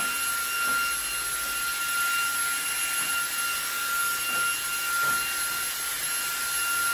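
eufy HomeVac H30 Mate cordless handheld vacuum running steadily, a constant high-pitched motor whine over the hiss of rushing air, as it cleans dust from a return air vent grille.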